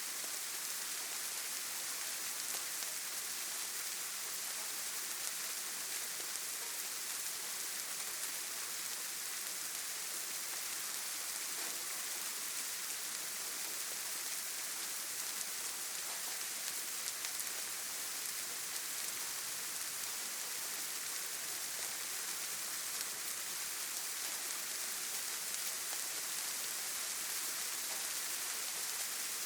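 Steady rain falling, an even hiss of many fine drops with faint scattered patters.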